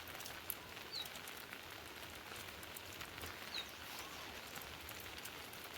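Steady rain falling, with scattered sharp drips and a couple of short, high falling chirps.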